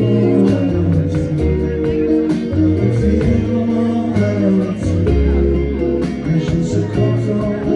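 Live rock band playing a song: electric guitars and bass over a steady drum beat, loud and full throughout.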